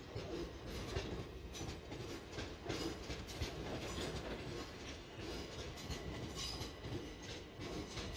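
Southeastern electric passenger trains running on the track, the wheels clicking irregularly over rail joints above a steady low rumble.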